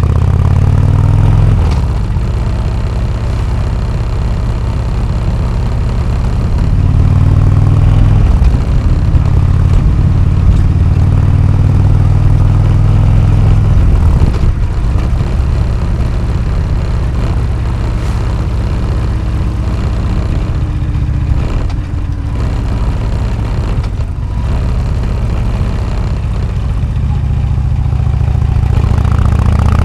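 Harley-Davidson Road King Classic's Twin Cam 103 V-twin running loud and low through an AMC HD4 aftermarket exhaust. The engine note climbs in pitch at the start and again near the end, holds steadier in between, and drops back briefly a few times.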